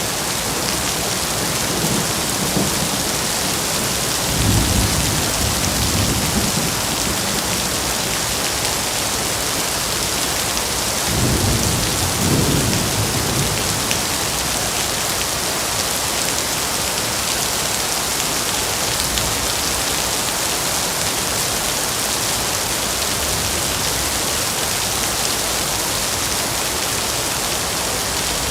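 Steady rain with two low rumbles of thunder, the first about four seconds in and the second about eleven seconds in.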